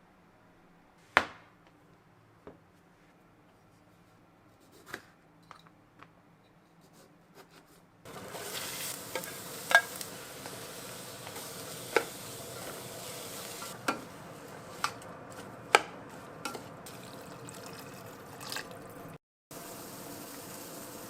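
Kitchen cooking sounds: a single sharp click, then after about eight seconds a steady hiss with utensil clinks and taps against cookware every second or two.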